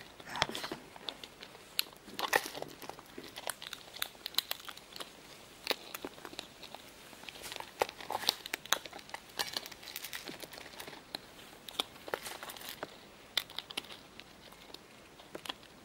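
Irregular crackling and crunching, with many quick snaps and tearing sounds throughout.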